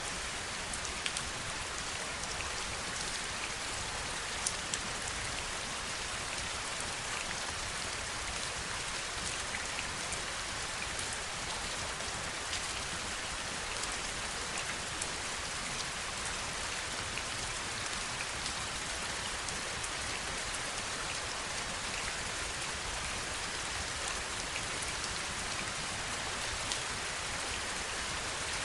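Steady heavy rain: an even hiss of rainfall with scattered sharp ticks of single drops striking close by.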